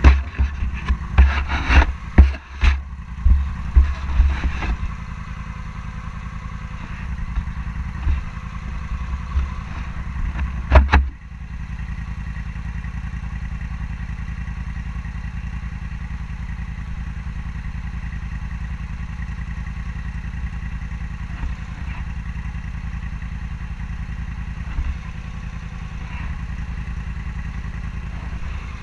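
Scrambler motorcycle engine heard from a camera mounted on the bike. For the first ten seconds or so it is broken by irregular loud low thumps and knocks. From about eleven seconds in the engine runs on steadily.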